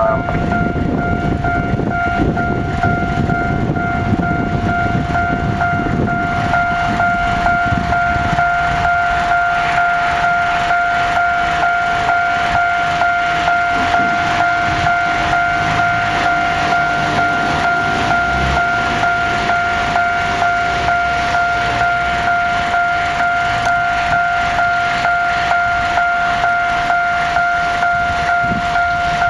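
Railway level-crossing warning bell ringing in steady, evenly repeated strokes as a freight train rumbles and clatters past on the rails.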